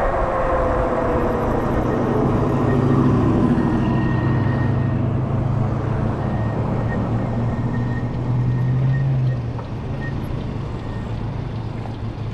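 Electric bike motor whining down in pitch over the first few seconds as the bike slows, over wind and tyre noise. A low steady rumble then drops away about nine seconds in.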